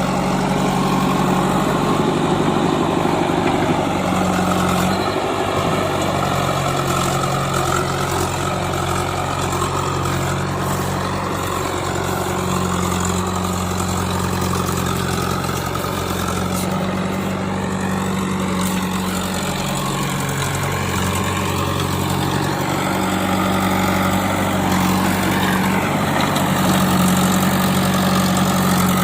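Diesel engines of a JCB 3DX backhoe loader and a tractor running steadily at close range. The engine note shifts in level and pitch several times as the machine works under changing load.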